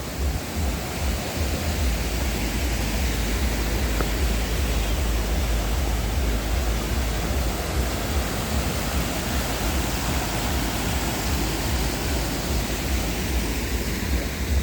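Waterfall rushing steadily, with a deep rumble underneath.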